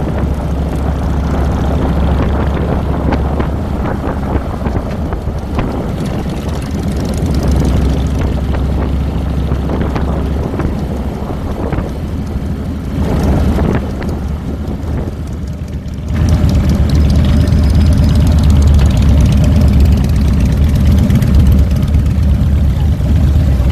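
2007 Harley-Davidson Fat Boy's Twin Cam 96 V-twin engine running on the ride, heard from a handlebar-mounted camera. It gets noticeably louder about two-thirds of the way through.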